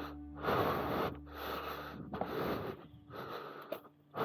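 A person breathing hard and rhythmically close to the microphone, a run of short noisy breaths in and out while walking.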